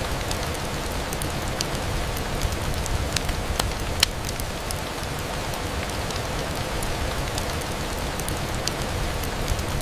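Steady rain on a window, with scattered sharp clicks through it; the loudest click comes about four seconds in.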